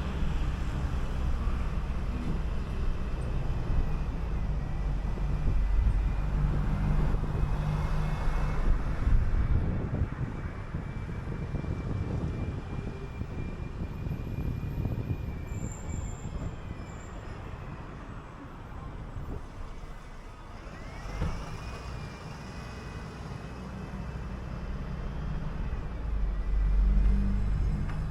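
City bus under way: engine and road noise with a thin high whine over it. The noise eases off about two-thirds of the way through, then the whine rises again as the bus speeds back up, and the rumble swells near the end.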